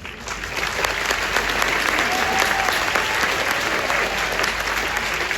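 A large stadium crowd applauding, swelling in over the first second and then holding steady, in response to a thank-you in a retirement speech.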